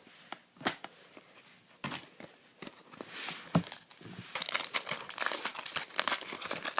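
Foil trading-card pack wrapper being torn open and crinkled by hand: a few light clicks and rustles at first, then dense crinkling from about four seconds in, growing louder near the end.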